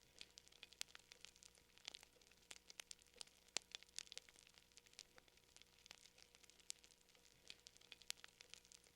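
Faint fire crackling: irregular sharp pops and snaps, several a second, some louder than others.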